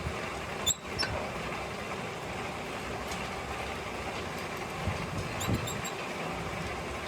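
Steady workshop machinery noise, with a sudden click about a second in and a few short high squeaks about five and a half seconds in.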